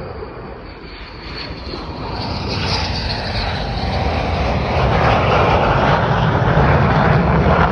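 Military fighter jet flying near, its engine noise building from about a second in to a loud, steady rumble and rush, with a high whine that rises around three seconds in.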